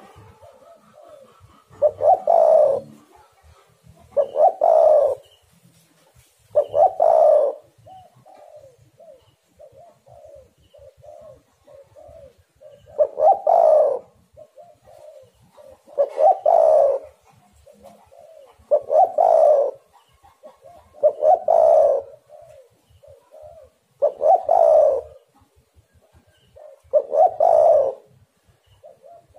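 Spotted dove (tekukur) cooing over and over: a loud, low cooing phrase every two to three seconds, with softer coos between them. About 8 to 12 seconds in there are only the softer coos.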